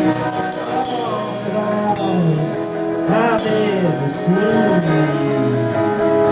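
Live folk-rock band music: guitar and drums with cymbal hits, and a male voice singing a gliding melody line.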